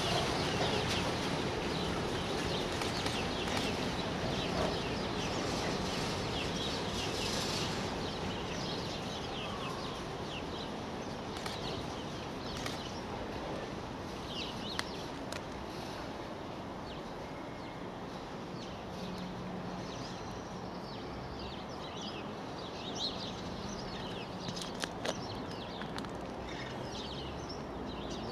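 Freight wagons and yellow track machines of an engineering train rolling along the rails, the wheel noise fading slowly as the tail of the train recedes. Birds chirp throughout, clearer as the train noise dies away.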